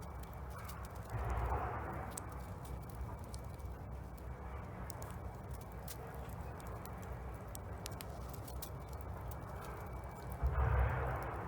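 Wood fire crackling and popping in a Solo Stove Bonfire fire pit, with scattered sharp snaps over a low steady rumble. A louder noise comes about a second in and again near the end.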